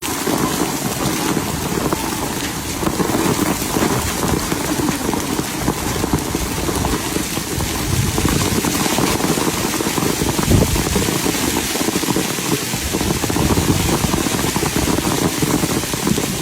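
Steady rain falling, a constant hiss with no let-up.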